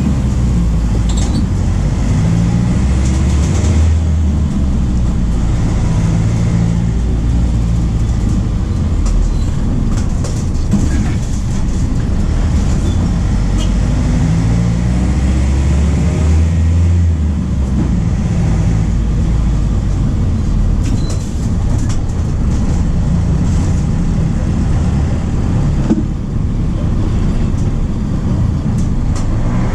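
MAN D0834 four-cylinder turbodiesel of a VW 17.230 OD bus pulling under load. The engine note climbs and drops back several times, as the manual gearbox is shifted up.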